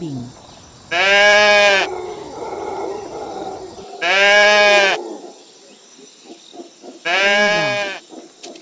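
Livestock bleating: three loud calls about three seconds apart, each just under a second long.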